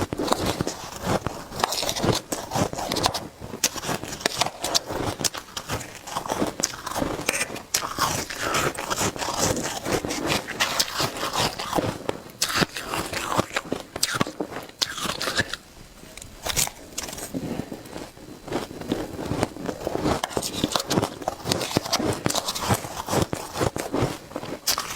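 Shaved ice being bitten and chewed close to the microphone: dense, fast crunching and crackling, with a short lull about two-thirds of the way through.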